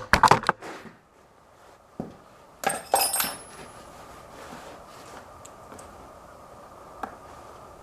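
Metal tools and hardware clinking and knocking during battery and ground-cable work: a few quick clinks at the start, a knock about two seconds in, then a cluster of ringing metallic clinks about three seconds in. A faint steady hum follows, with one more click near the end.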